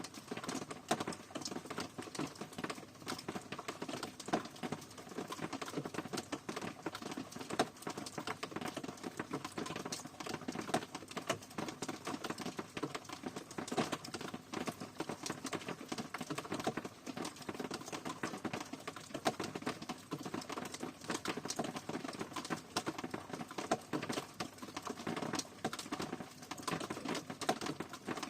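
Rain falling steadily, a dense, irregular patter of many separate drop hits.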